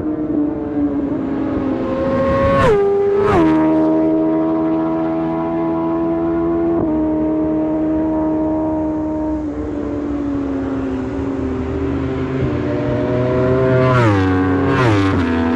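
Racing superbike engine at sustained high revs with a steady tone. Around three seconds in and again near the end the pitch drops in two quick steps at gear changes, each marked by a short crack.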